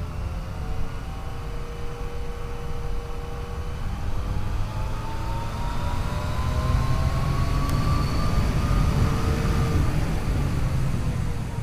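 Yamaha FJ-09's 847 cc three-cylinder engine pulling under acceleration, its pitch rising steadily for several seconds from about a third of the way in and easing off near the end, over a heavy low rumble of wind and road noise.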